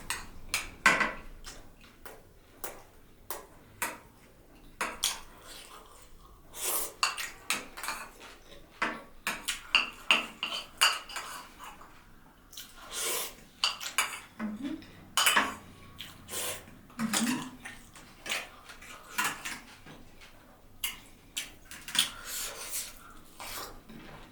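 Close-miked eating: irregular clicks and clinks of a plate and utensils, mixed with chewing and mouth sounds, a few every second.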